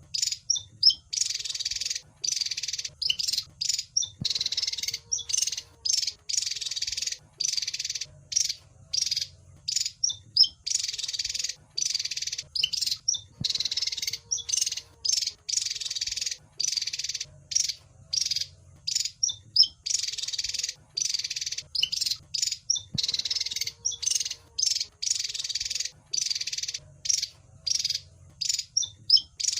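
Javan fulvetta (wergan jawa) calling in rapid bursts of high chirps and short trills. The same sequence of phrases repeats about every nine and a half seconds, over a faint low hum.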